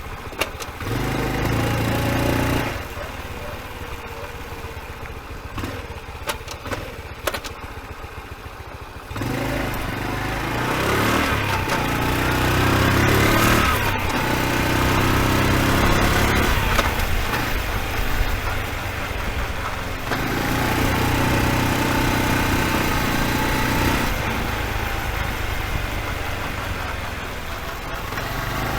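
Honda Super Cub's single-cylinder four-stroke engine idling and revved up three times, once briefly and twice held for a few seconds, with pitch rising during the long rev. No clicking noise is heard: the earlier knock is cured, and the owner thinks the piston had been hitting something.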